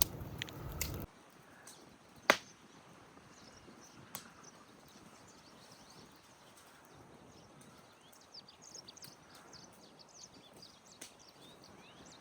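Quiet outdoor background with one sharp loud knock about two seconds in and a couple of fainter knocks later. Many short high chirps come near the end, like small birds. A noisy crackling sound cuts off abruptly about a second in.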